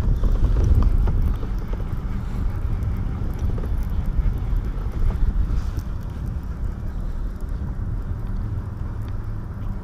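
Wind buffeting the microphone: a steady low rumble, a little stronger in the first second or so.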